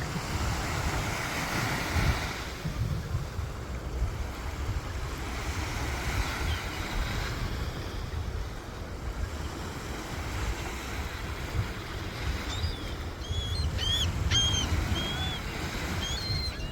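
Sea surf washing in, swelling and falling, with wind buffeting the microphone. From about three-quarters of the way through, a seagull gives a series of short, high calls.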